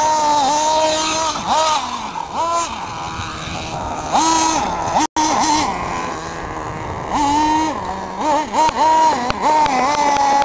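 Small high-revving nitro engine running and being revved up and down repeatedly, its pitch rising and falling. The sound cuts out for an instant about halfway through.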